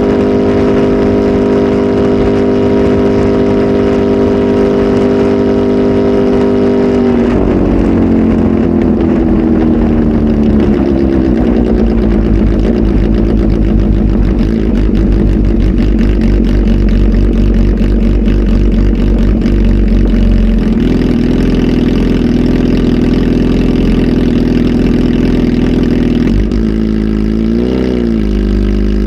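Kawasaki Z H2 SE's supercharged four-cylinder engine, breathing through a full aftermarket exhaust, held at raised revs for several seconds. The revs then fall back and settle at a lower, steady pace, with two quick throttle blips near the end.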